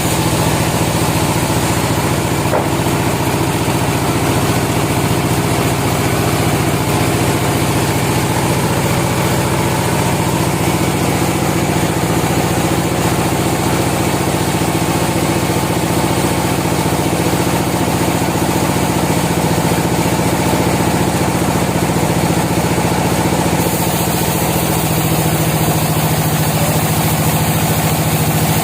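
Sawmill machinery running with a steady, loud, engine-like drone that holds even throughout, with a slight shift in its tone about 24 seconds in.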